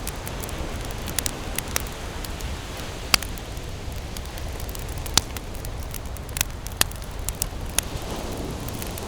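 Wood campfire crackling: irregular sharp pops and snaps, the loudest about three and five seconds in, over a steady low rush.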